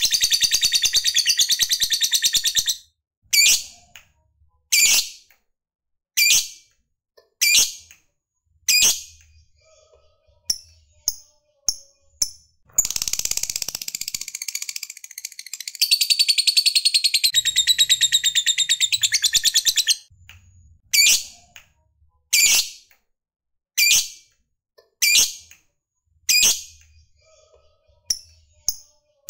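Lovebird calling: sharp, high single calls about every second and a half, broken by two long, rapid chattering trills ('ngekek'), a short one at the start and a much longer one midway lasting about seven seconds.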